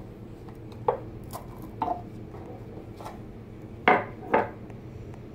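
A handful of sharp metallic clinks, the loudest two close together near the end, as steel valve lifters are taken out of the engine block and set down. A steady low hum runs underneath.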